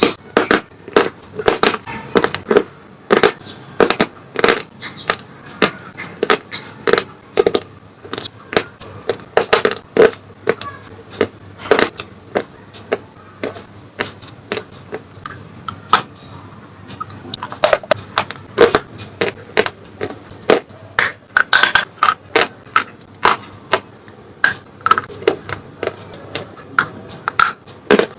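Close-miked chewing of slate pencils: a quick run of sharp, dry crunches, two or three a second, thinning out for a few seconds midway.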